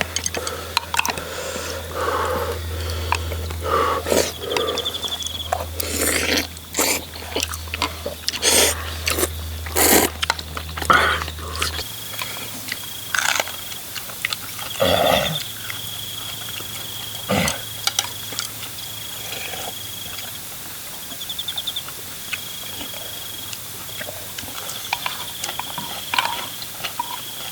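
Outdoor meal of stew from earthenware bowls: spoons and chopsticks click and knock against the bowls, with chewing in between. A steady high insect-like trill repeats every few seconds, and a low hum stops about halfway through.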